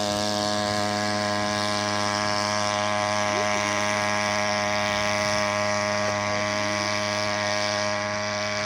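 Small 3 hp outboard motor running steadily at a constant, even pitch.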